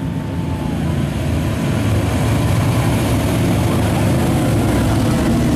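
Car engines running at low speed with a deep, steady sound that grows louder about a second and a half in.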